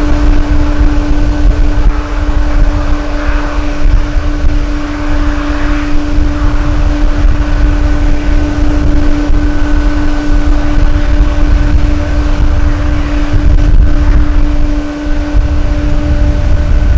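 Strong wind buffeting the microphone with a heavy low rumble, over a steady droning hum from a jet airliner's engines.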